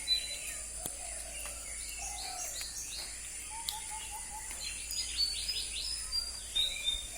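Several wild birds chirping and calling over one another: a quick run of short repeated notes, and bursts of sharp downward-sweeping chirps, over a steady high-pitched hiss.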